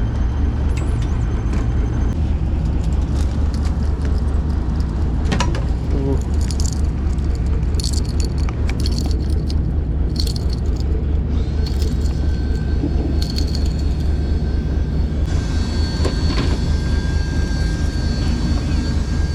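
Boat engine running steadily, with scattered light clicks and rattles of gear on deck.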